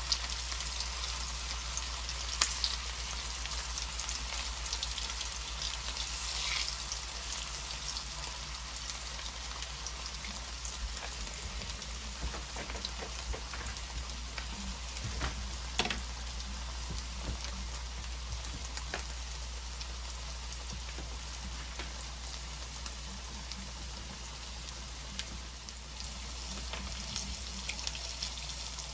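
Cornmeal-breaded pork chops frying in hot oil in a stainless steel skillet: a steady sizzle with scattered crackles and a few sharper pops.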